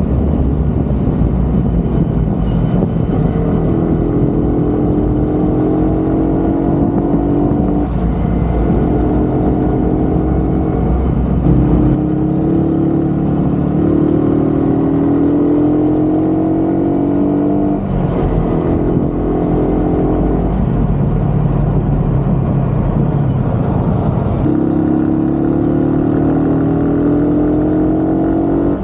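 Motor vehicle engine running steadily, its pitch climbing slowly and dropping back several times, as when it accelerates and shifts up through the gears.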